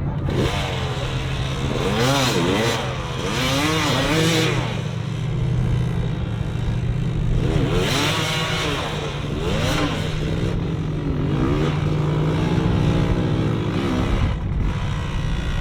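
Off-road 4x4 engine revving hard, its pitch rising and falling again and again in short bursts over a steady low engine drone.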